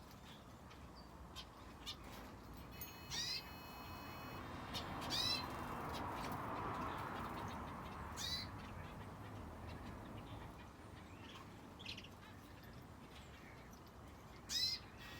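Small aviary birds, finches and a canary, giving short, sharp chirping calls a few seconds apart. Under the calls runs a steady rushing hiss that swells and fades in the middle.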